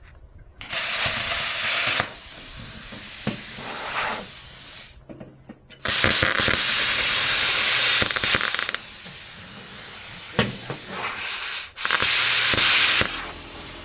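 Cordless power driver running in three bursts as it drives screws into the boards of a wooden raised bed: a short one about a second in, a longer one near the middle and a short one near the end, with light knocks of handling between.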